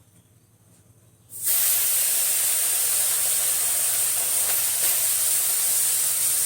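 Small fish frying in hot oil in a pan, sizzling with a loud, steady hiss that starts suddenly about a second in.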